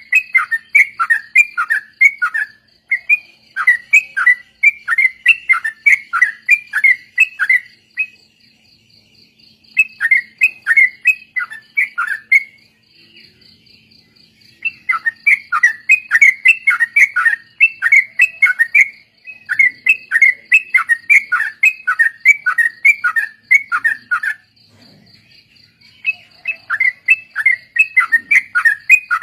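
Yellow-vented bulbuls (trucukan) singing together in rapid bouts of repeated, downward-sliding notes, about four a second, broken by a few short pauses. A faint, steady, high pulsing trill runs beneath.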